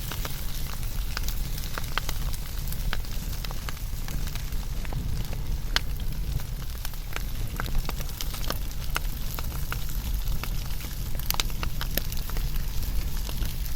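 Wood fire burning: a steady low noise of the flames with many irregular sharp crackles and pops throughout.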